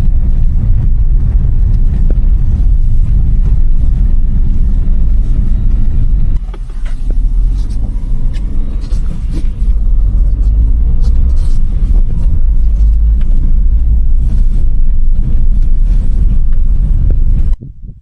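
Loud, low rumble of a vehicle on the move, dipping briefly about six seconds in and cutting off abruptly near the end.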